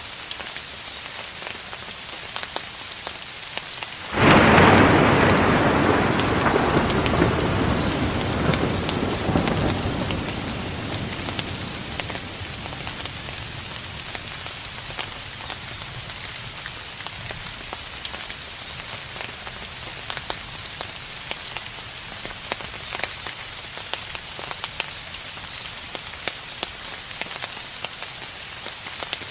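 Steady rain falling, with drops ticking on a surface; about four seconds in a thunderclap breaks out suddenly and rumbles, fading away over the next six to eight seconds.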